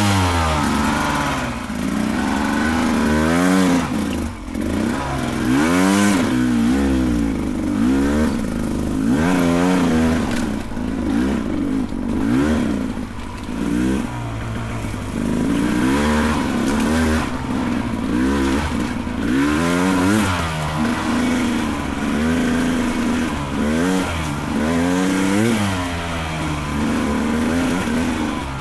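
Beta 300 Race Edition two-stroke dirt bike engine revving up and down again and again, its pitch rising and falling every second or two as the rider works the throttle up a steep, technical trail.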